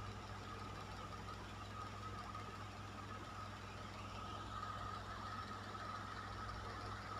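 Electric fan running steadily: an even rush of moving air with a low motor hum and a faint constant whine.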